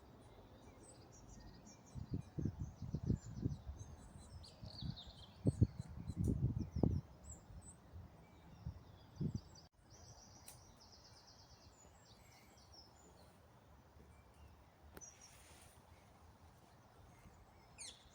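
Birds chirping and trilling in the trees, with a run of low rumbling bumps a couple of seconds in that are the loudest sound, and one more bump a few seconds later.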